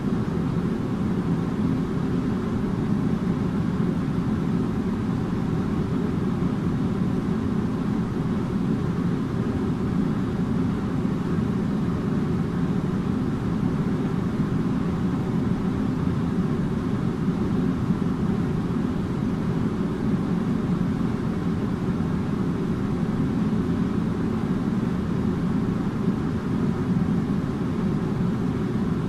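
Air conditioner running steadily: an even, low whooshing drone of fan and airflow with a faint hum.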